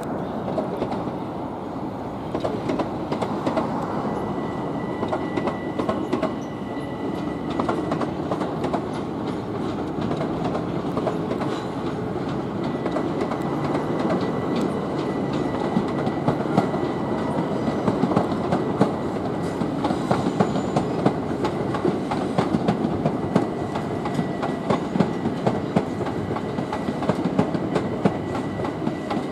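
Electric multiple-unit train running over the track and pointwork, its wheels clattering in a dense stream of clicks, with a faint steady high whine.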